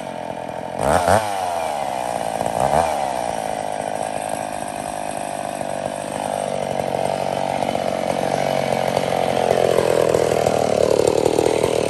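McCulloch two-stroke chainsaw running: two quick throttle blips, then held at high revs. It gets louder and its pitch sags in the last few seconds.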